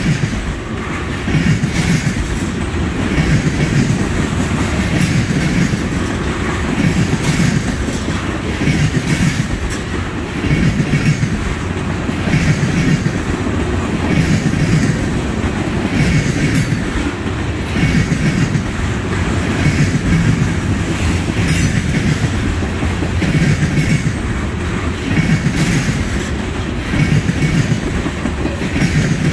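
Freight cars of a trash train rolling past, their steel wheels clacking in repeating groups over rail joints above a steady, heavy rumble.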